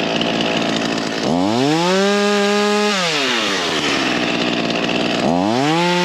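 Ryobi 16-inch 37cc two-stroke gas chainsaw revved up to full throttle twice, each time holding a steady high pitch for a second or more before dropping back to a rough idle.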